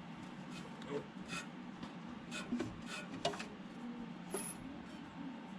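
Irregular light clicks and scrapes of a wrench on the crankshaft of a 1964 Ford Falcon's small-block V8 as it is turned over by hand with the spark plugs out; the engine turns more than a quarter turn, so it is not seized.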